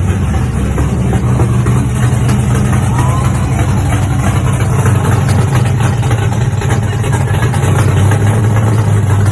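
A 525 cubic inch big-block Chevy V8 running at a steady idle, loud and even, on its first run after sitting for five years.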